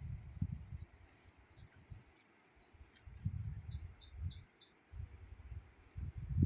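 A small bird chirping, with a quick run of about five high chirps in the middle and a few single notes before it. Low, gusty rumbles come and go underneath and are the loudest sound at the start and near the end.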